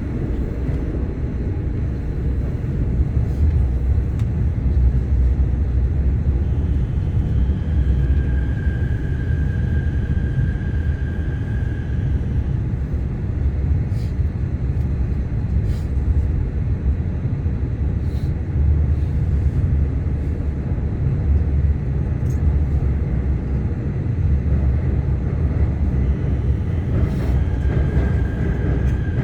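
Seoul Metro Line 4 electric train running slowly over a track section under track-bed replacement, with a steady low rumble and scattered clicks of wheels passing rail joints. A faint, steady high-pitched tone comes in twice, once for a few seconds about a third of the way in and again briefly near the end.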